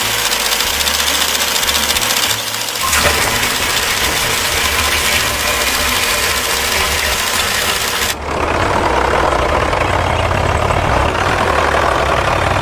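Tractor engine running loudly under a dense rushing noise, with abrupt changes in the sound about two, three and eight seconds in.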